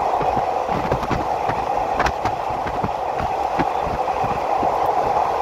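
Passenger train running along the track, heard from inside the carriage: a steady running noise broken by irregular clicks and knocks.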